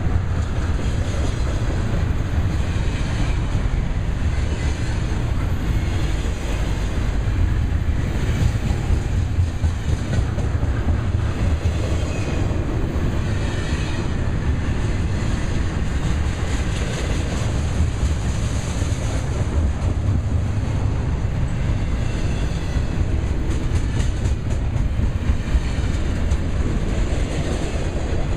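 Double-stack container well cars of a freight train rolling past close by: a steady rumble of steel wheels on rail with clickety-clack over the rail joints.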